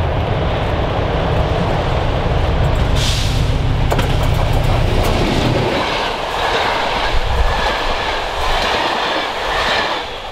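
SM42 diesel locomotive passing close, its engine a strong low drone for about the first six seconds. Then a rake of passenger coaches rolls by, wheels clattering over the rail joints, and fades near the end.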